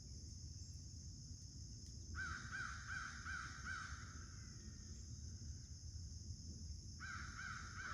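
Crows cawing: a quick run of about five caws a little over two seconds in, then a shorter run of about three near the end, over a steady high hiss.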